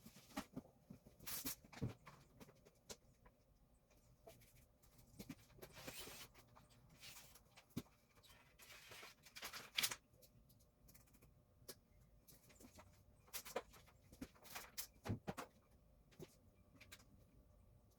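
Faint, scattered clicks, taps and short scraping or rustling sounds, with near silence between them.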